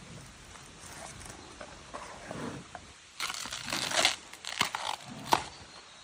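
Giant panda chewing bamboo: crunching and cracking of the stalks, faint at first, then a dense run of crunches with a few sharp cracks from about halfway through.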